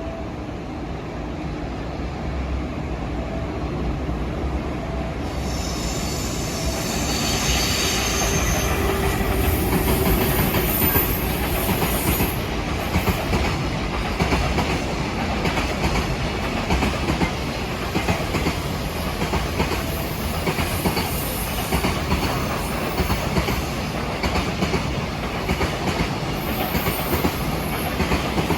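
A long freight train, hauled by an EF210 electric locomotive, passing close by with a heavy rumble. About five seconds in, wheels squeal for a few seconds. After that the wagons run on in a steady clickety-clack over the rail joints.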